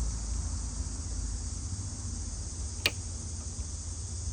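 Crickets chirring steadily over a low rumble, with one sharp click nearly three seconds in as the end clip of a gas lift strut is worked.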